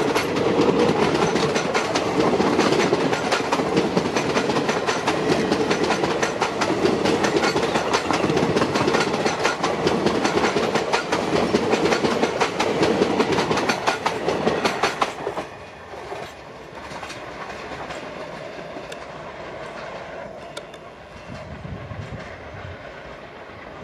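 ICF passenger coaches of an express train running past close by at speed, their wheels clattering rapidly over the rail joints with a loud rumble. About fifteen seconds in the sound drops sharply, leaving a quieter rumble as the train draws away.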